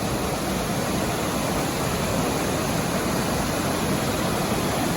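Waterfall: a steady rush of falling water, an even noise with no let-up.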